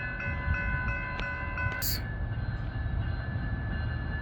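Amtrak train led by a Charger diesel locomotive, standing and running: a steady low engine rumble, with a chord of steady high tones that stops about two seconds in, right where a short, sharp hiss of air cuts in.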